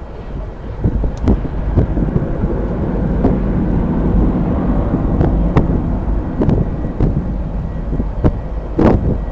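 Strong wind buffeting the microphone, a deep rumble with irregular gusty thumps, swelling in the middle.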